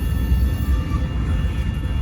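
Freight train at close range: a deep, steady rumble with several unchanging whining tones held above it.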